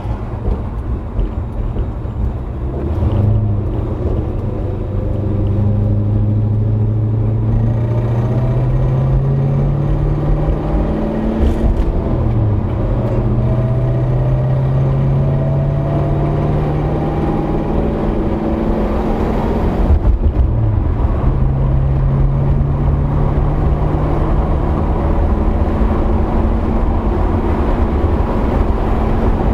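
Motor vehicle engine running under steady acceleration. Its pitch climbs slowly and drops back sharply three times, like gear changes.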